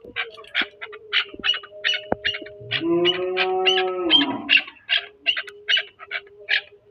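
Birds calling in a rapid series of short chirps, about three a second. A single long, level call lasts about a second and a half near the middle.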